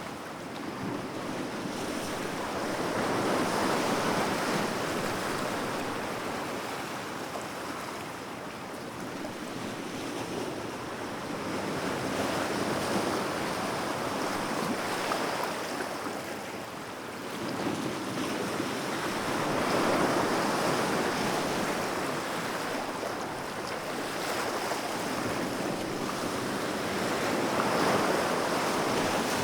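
Ocean waves washing in on the shore, a continuous rush that swells and falls away every several seconds as each wave breaks and recedes.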